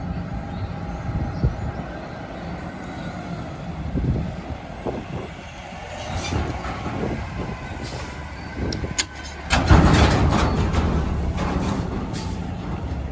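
Garbage truck engine running, with a louder surge of noise starting a little after nine seconds in.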